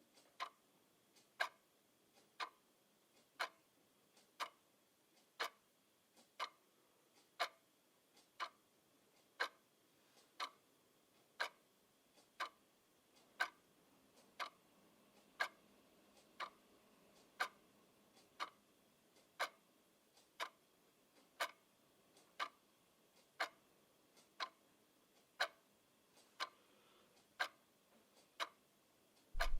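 Clock ticking steadily, one sharp tick about every second. Just before the end a low hum cuts in abruptly, louder than the ticks.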